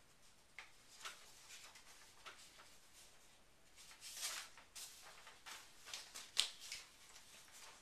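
Faint scattered clicks and soft rustling in a quiet room, with a short, louder swish about four seconds in and a sharper one about six and a half seconds in.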